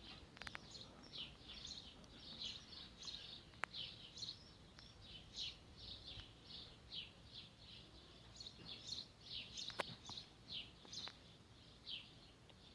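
A small bird chirping repeatedly, short high notes about two a second, with a couple of faint clicks.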